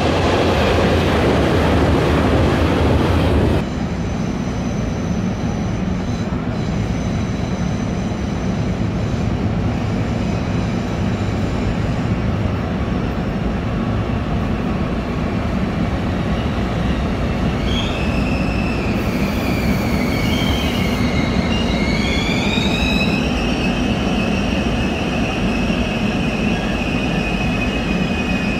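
KTX-Eum high-speed electric train: first a loud passing rush, cut off suddenly a few seconds in. Then a steadier low rumble as it rolls slowly through a station, with high squealing tones gliding up and down from about two-thirds of the way in.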